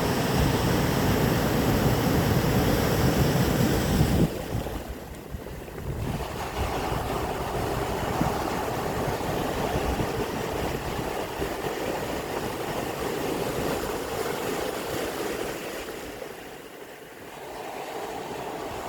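Sea waves washing onto the shore in a steady rush of surf. A louder low rumble of wind on the microphone runs through the first four seconds and stops suddenly.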